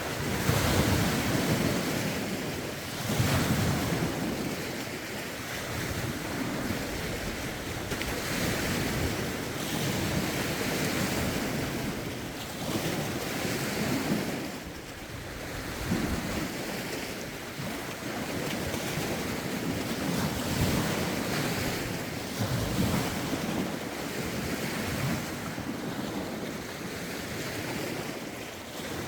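Lake waves washing ashore in irregular surges every few seconds, with rough wind buffeting the microphone in low rumbling gusts.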